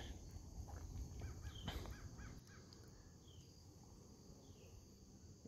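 Faint bird calls carrying across a quiet lake. A quick run of short calls comes about a second in, followed by a few faint, high, short downward-sliding calls spaced about a second apart.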